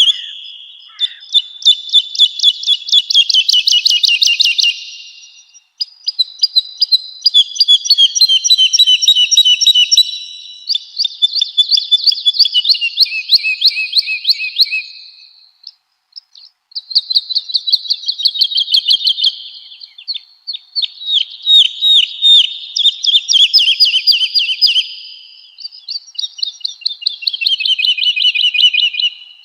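Woodlark singing: a run of phrases, each a few seconds long, of rapidly repeated clear notes, several of them dropping in pitch, with brief pauses between phrases.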